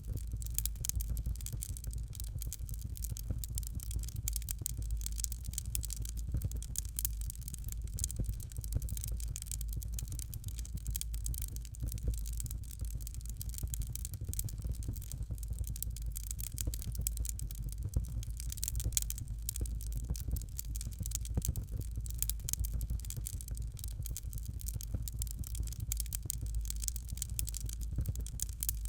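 Fire in a fireplace crackling steadily, with a dense stream of rapid small pops and snaps over a low, constant rumble.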